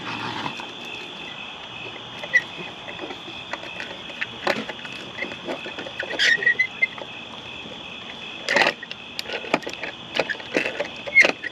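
Scattered clicks, knocks and rattles of raccoons handling plastic toys, over a steady high trill of night insects. A short squeak comes about six seconds in, and a louder rustling burst a little later.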